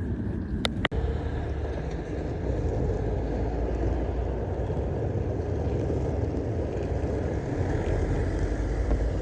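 Steady low rumble of a vehicle in motion, with a brief break about a second in.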